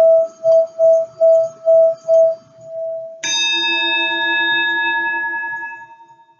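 Crystal singing bowl ringing one steady tone with a pulsing wobble, about two to three swells a second, which fades out about halfway. A metal bell-like instrument is then struck once and rings with several overtones, slowly dying away.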